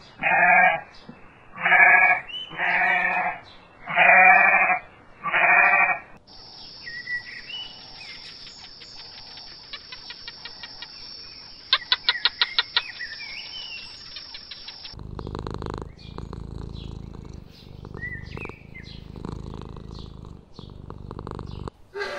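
A farm animal bleating five times, loud and about a second apart. Then a quieter stretch of birds chirping over a steady hiss, with a quick run of clicks in the middle.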